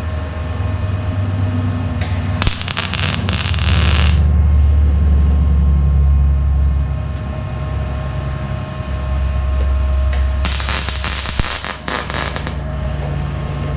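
Electric welder tacking a sheet-metal patch into a car's deck lid: two short crackling bursts of arc, each about two seconds long, laid down slowly to keep the thin panel from warping. A steady low hum runs underneath.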